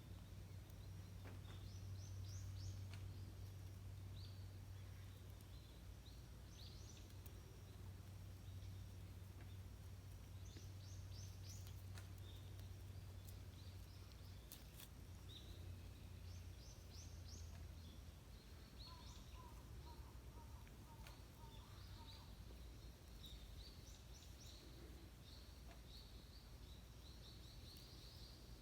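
Faint outdoor ambience of small wild birds chirping, in quick clusters of short high notes repeated throughout, with a brief run of lower evenly spaced notes about two-thirds of the way through. A low steady hum underneath fades out about two-thirds of the way through.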